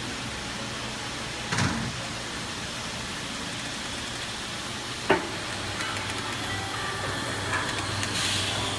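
Elbow inner overlay welding machine running with a steady hum and hiss; a short knock about a second and a half in and a sharp click about five seconds in. Faint steady tones come in during the second half.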